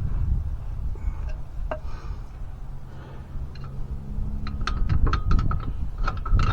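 Scattered metallic clinks and taps of metal parts being worked by hand under a pickup truck, coming thick and fast in the last two seconds, over a low steady hum.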